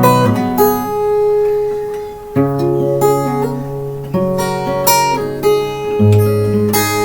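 Acoustic guitar music: strummed chords that change about every two seconds.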